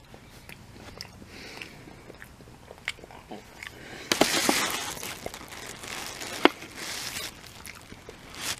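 Biting and chewing a ketchup-dipped breaded chicken nugget close to the microphone: scattered crunches and mouth clicks, with a louder stretch of crunching about four seconds in.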